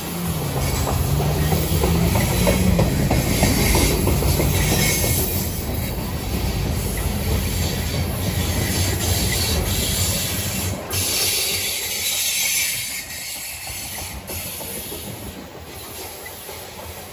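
Covered hopper cars of a freight train rolling past on jointed track, a steady rumble and clatter of wheels on rail that grows quieter over the last few seconds.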